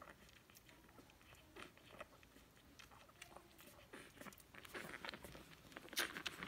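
Puppies chewing and gnawing: faint, scattered crunching clicks that grow busier near the end, with one sharper click.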